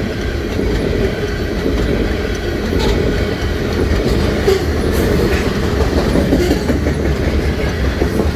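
A freight train of covered hopper cars rolling past close by: a steady rumble of wheels on rail with occasional sharp clicks.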